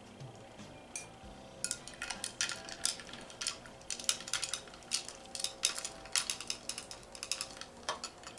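Rapid, irregular clinking of glassware and a metal utensil as a cocktail is mixed, many short clinks in quick succession for most of the time.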